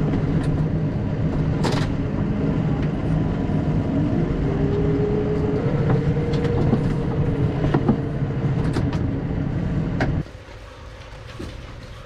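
A vehicle engine running steadily at a low, even pitch, with a tone rising in pitch about four seconds in and scattered light clicks and knocks over it. The engine sound cuts off suddenly about ten seconds in, leaving quieter clicks and knocks.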